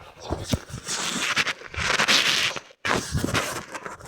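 Footsteps and rustling, handling noise from a hand-held phone while walking, broken by a brief dropout to silence about three seconds in.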